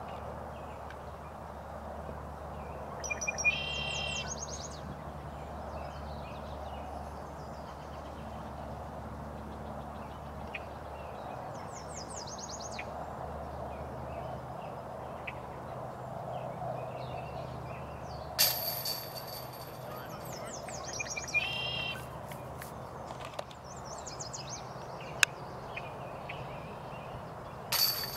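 Bird calls, short chirping phrases heard a few times, over a steady low background hum. Two sharp strikes with a brief ringing tail, about eighteen seconds in and at the end, are the loudest sounds, with a single sharp click in between.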